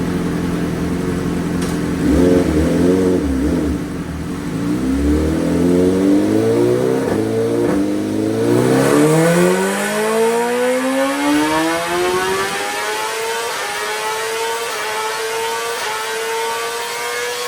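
2023 BMW M1000R inline-four with an Austin Racing full titanium exhaust, tuned on E85, making a full-throttle dyno pull: the engine note climbs steadily in pitch for about ten seconds as the revs rise. Near the end the engine note drops away, leaving a steady high whine.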